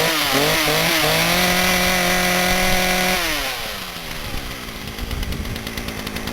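Small two-stroke engine of a McCulloch MS4016PAV chainsaw blipped up and down, then held at high revs for about two seconds. A little after three seconds in it winds down and settles to a fast, quieter idle.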